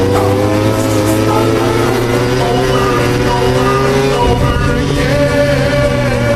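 MotoGP race motorcycle engines running at high revs, their pitch sliding slowly up and down, mixed with background music.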